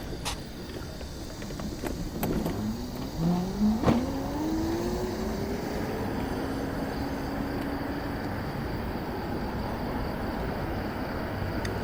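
City street traffic: a steady low rumble, with a vehicle's motor whine rising in pitch about three seconds in, then holding steady and dying away around eight seconds. A few sharp clicks, the loudest about four seconds in.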